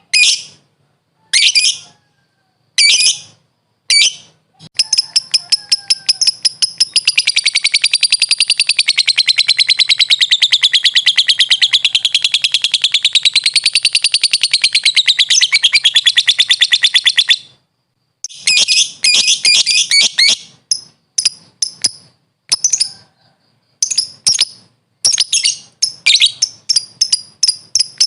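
Lovebird calling: a few sharp shrill calls, then a long, very rapid chattering trill lasting about twelve seconds that wavers up and down in pitch (the long trill keepers call ngekek), then a quick run of short chirps.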